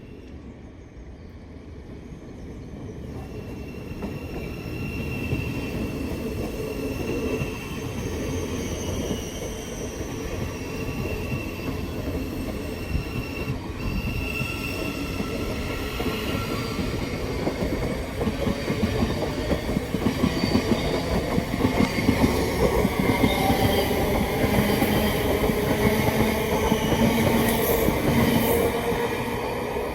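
Passenger train running through the station on the rails, growing louder over the first few seconds and then staying loud. A broken, high wheel squeal comes and goes over the rumble.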